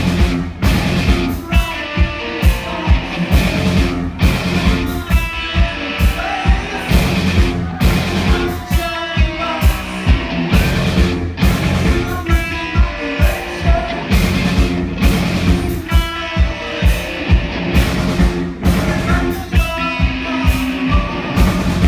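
A live rock band playing a steady, driving drum beat under electric guitar.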